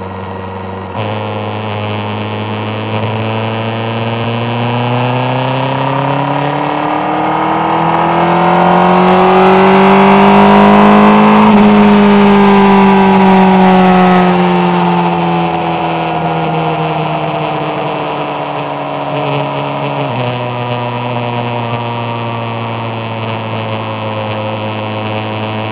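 Yamaha FZR1000 (3GM) inline-four engine under way at expressway speed: the revs climb steadily for about ten seconds, with a rushing noise swelling as it goes faster, then fall away slowly over the next eight seconds or so. About twenty seconds in, the engine pitch steps down, then holds steady.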